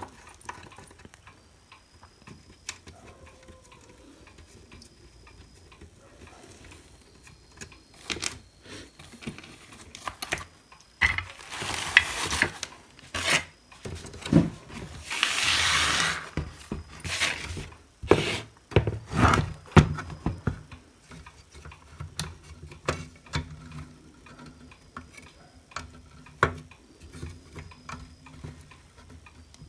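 Hand-work noises from taking apart a hot air gun: scattered clicks and knocks of small parts and tools, with two longer scraping, rustling stretches near the middle.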